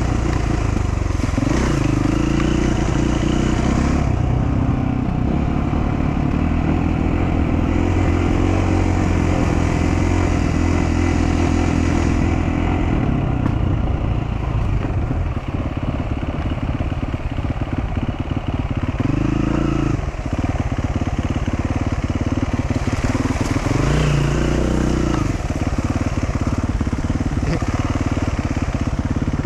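Dual-sport motorcycle engine running at low revs on a rough off-road trail, the revs rising briefly twice in the second half.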